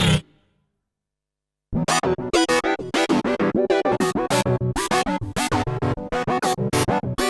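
Korg Minilogue XD synthesizer playing factory presets: one sound cuts off just after the start, and after about a second and a half of silence a new preset begins, a fast run of short, bright, percussive notes, several a second.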